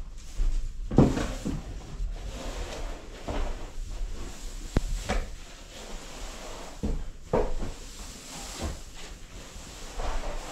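Hay being handled in a barn loft: irregular thuds and knocks with rustling in between, a few sharper knocks about a second in and near the middle.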